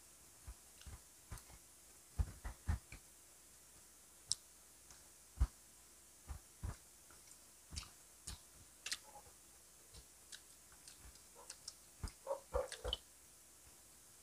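Close-miked eating sounds of people chewing grilled street food off wooden skewers: sparse, irregular wet clicks and lip smacks, with a quick cluster of them near the end.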